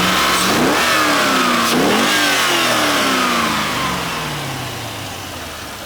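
1998 Chevrolet Corvette C5 LS1 5.7-litre V8 revved twice, its pitch climbing at the start and again about two seconds in, then falling slowly back toward idle. The seller describes the engine as free of knocking or ticking.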